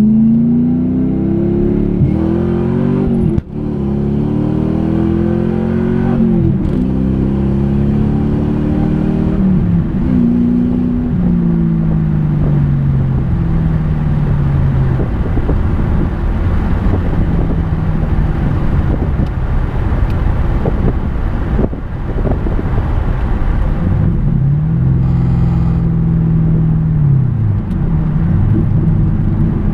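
1996 Ford Mustang GT's 4.6-litre V8 accelerating hard through the gears: the engine note climbs in pitch and drops back at each upshift, three times in the first ten seconds or so. It then settles to a steady or easing cruise, with one brief rev up and back down near the end.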